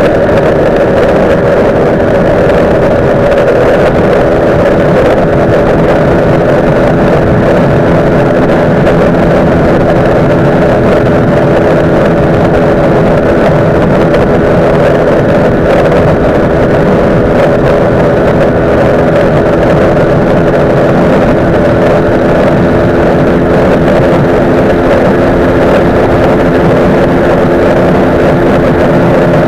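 Honda CG 125 Fan's single-cylinder four-stroke engine held wide open near its top speed, a steady drone, with wind rushing over the helmet-mounted microphone. The bike is stock except that the air filter has been removed.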